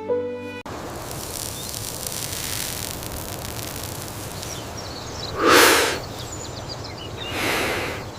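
Steady outdoor ambient noise, with two brief whooshing swells: a loud one about five and a half seconds in and a softer one about two seconds later. Background music cuts off about half a second in.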